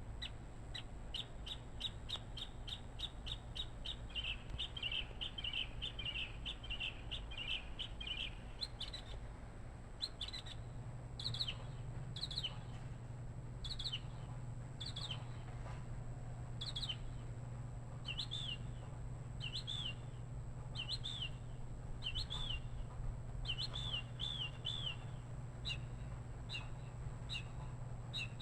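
A bird chirping: a quick run of high chirps, several a second, for about the first eight seconds, then single down-slurred chirps roughly once a second.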